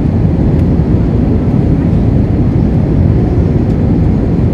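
Steady low roar of a jet airliner's engines.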